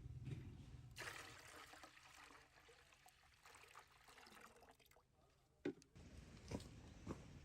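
Faint trickling water, with a few soft knocks near the end.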